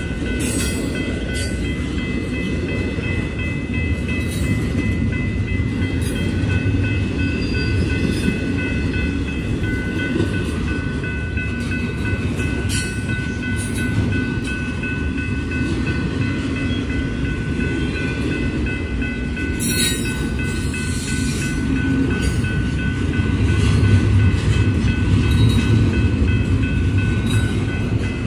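Intermodal container train rolling past: the steady low rumble of wheels on rail, with scattered clicks and knocks and a thin, steady high squeal over it. It grows a little louder about 23 seconds in.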